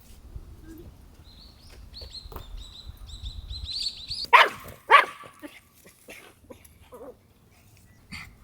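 A dog whining in a run of high-pitched squeaks that grow louder, then barking twice, about half a second apart.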